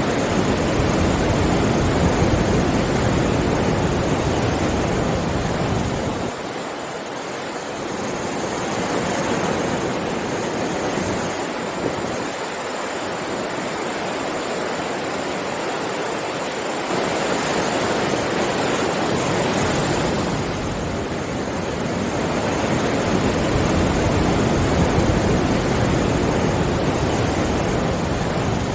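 Sea waves breaking and washing on a shore, a continuous rushing surf that swells and ebbs in slow surges every few seconds.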